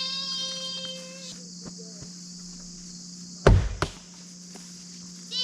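A thrown blade strikes the wooden target with a sharp thunk about three and a half seconds in, followed by a second knock a moment later. A long, high, steady call sounds at the start.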